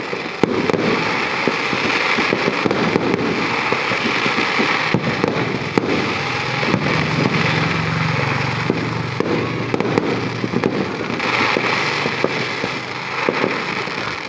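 Fireworks going off, a dense, continuous run of pops and crackling bangs with no pause.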